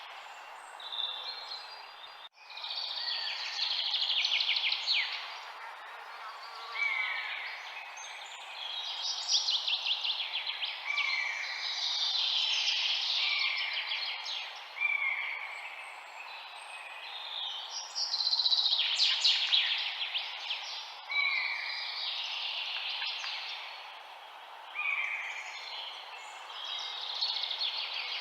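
Songbirds singing: repeated rapid trilled phrases and short down-slurred whistles every second or two, over a steady soft hiss. A brief click and dropout about two seconds in.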